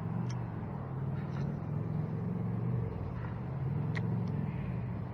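A motor engine running with a steady low drone that wavers slightly in pitch, with a couple of faint ticks over it.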